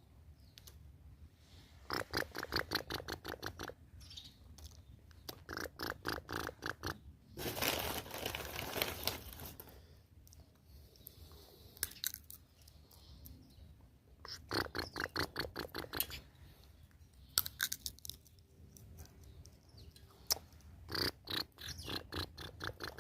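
Runs of rapid crunching clicks, about ten a second, in four bursts of one to two seconds each, as sunflower seeds are cracked open. A rustling scrape lasting about two seconds comes between them.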